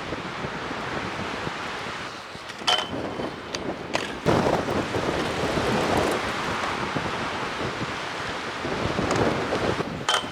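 Strong gusting wind buffeting the camera microphone, surging hard about four seconds in. A few sharp clicks cut through it, two of them with a brief high ping.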